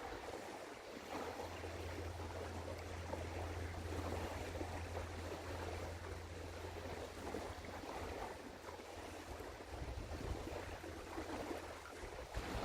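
Low, steady drone of a passing container ship's engine under a rushing of wind and water, the drone fading out past the middle.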